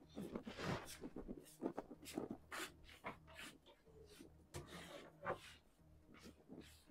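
Faint, irregular rustling and soft knocks of people moving about and handling things.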